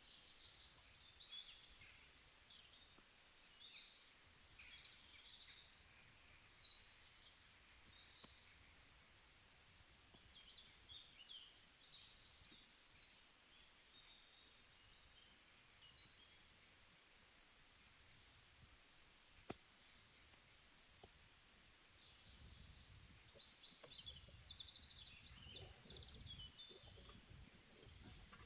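Faint, scattered chirps of small birds, with one sharp click about two-thirds of the way through and a low rumble rising near the end.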